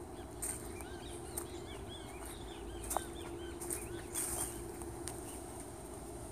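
Small birds calling in quick, short arched chirps from the surrounding woods, over scattered footsteps on the leaf-covered trail and a steady low hum.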